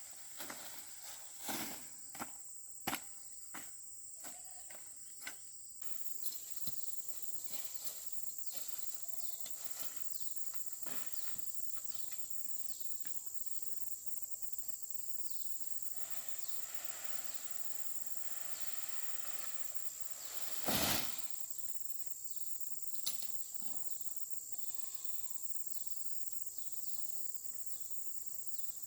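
A steady high insect drone throughout, with a run of sharp snaps and knocks in the first several seconds, one louder brief crash about two-thirds of the way through, and a single click shortly after.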